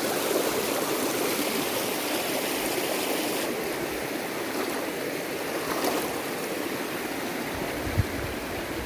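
Shallow mountain river rushing steadily over stones, with a brief low thump about eight seconds in.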